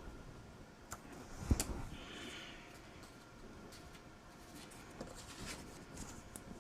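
Quiet handling of paper and cardstock on a work table: a soft thump about one and a half seconds in, a brief papery slide just after, and a few light taps.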